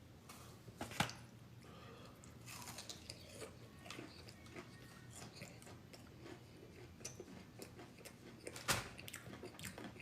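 A person chewing and biting food close to the microphone, with many small wet mouth clicks and two sharper clicks, one about a second in and one near the end.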